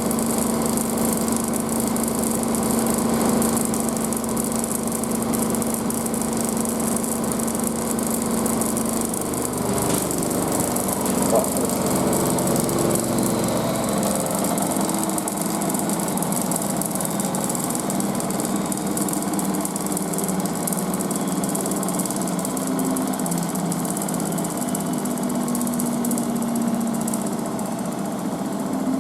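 Washing machine spinning at high speed, a steady whir with a low rumble. About ten seconds in the pitch changes and the drum begins winding down, and the low rumble drops away a few seconds later.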